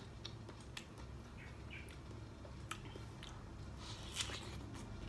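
Chewing and biting into a peeled fresh pineapple: scattered short wet mouth clicks, with one louder bite about four seconds in.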